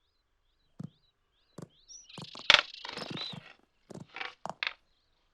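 Two rutting red deer stags sparring in a brief skirmish: a run of sharp antler clacks, loudest about two and a half seconds in, with scuffling noise between the clashes and faint bird chirps.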